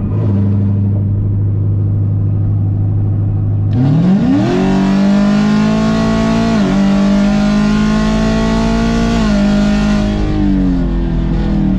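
Modified 2019 Camaro SS 6.2-litre V8, with headers and a catless X-pipe, running steadily at low revs, then accelerating hard about four seconds in with a quick rise in pitch. It holds a higher, louder note with a brief dip about seven seconds in, then eases off near the end.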